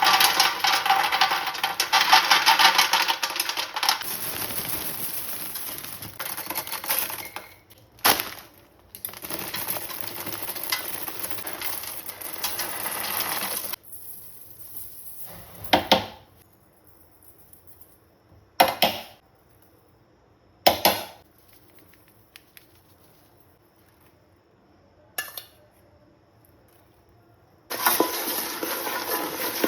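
Kitchen preparation sounds: bowls and utensils clinking and rattling in several long stretches, with a few single sharp knocks in quieter gaps between them.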